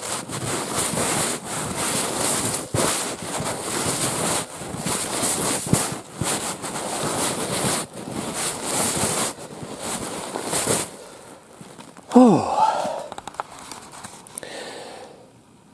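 Footsteps plowing through deep snow, with a man's heavy breathing from the uphill walk. The steps stop about eleven seconds in, and a falling, groaning exhale follows.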